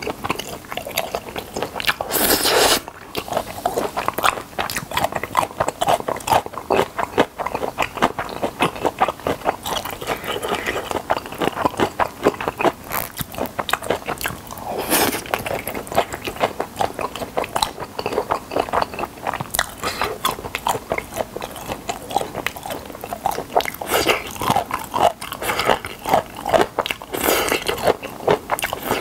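Close-miked chewing and biting of kimchi-cheese tangsuyuk, battered fried pork in sauce: a quick, continuous run of crunches and wet mouth sounds, with a few louder bursts, one about two seconds in and another about halfway.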